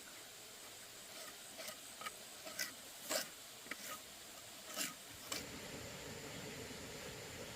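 A series of short scrapes, about eight over four seconds, the loudest a little past the middle, then a steady low background noise from about five seconds in.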